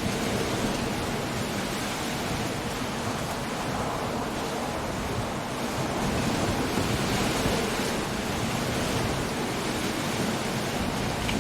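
Coastal storm: surf, wind and rain merging into a steady rushing noise that swells a little just past halfway.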